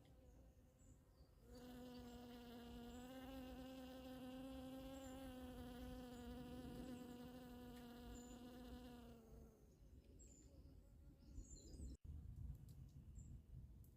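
A bee buzzing in flight: a steady hum with many overtones that starts about a second and a half in and fades out after about eight seconds.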